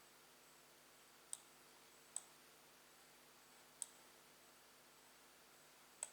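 Faint, sharp computer clicks at uneven gaps: three single clicks, then a quick double click near the end, as from a mouse or laptop button being used.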